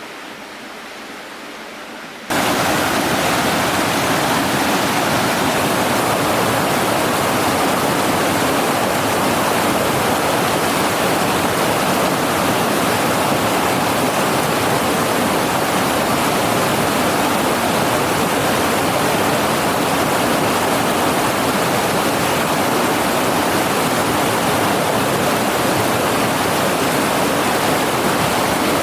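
Rushing river water, a steady loud wash of noise that jumps suddenly louder about two seconds in and then holds steady.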